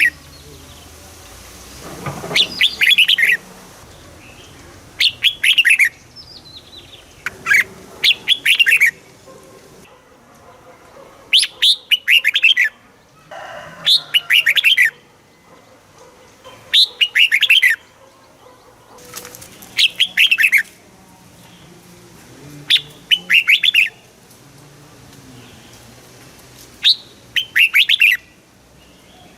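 Red-whiskered bulbul singing: short, bright phrases of quick downward-sliding notes, repeated about every two to three seconds.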